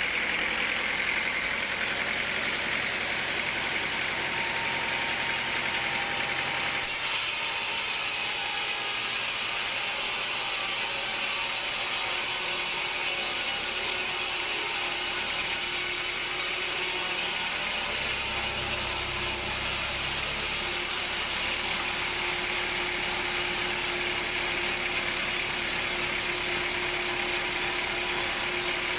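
Sawmill machinery running steadily, a continuous mechanical noise that changes abruptly about seven seconds in and again later.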